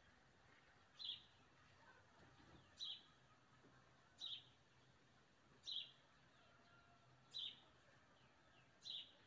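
A small bird repeating one short, high call about every second and a half, six times, faint.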